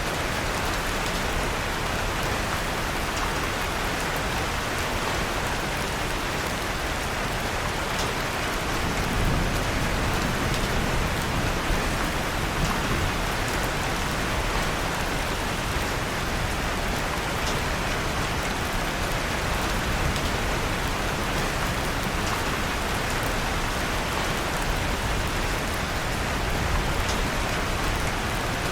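Steady rain falling on a surface, with scattered faint crackles from a wood fire.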